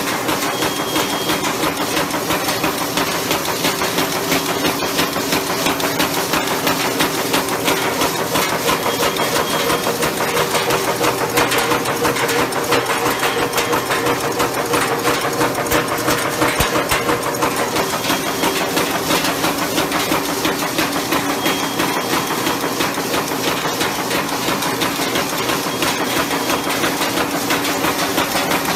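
Fully automatic umbrella-head roofing nail making machine running: a fast, continuous mechanical clatter of rapid strikes over a steady hum.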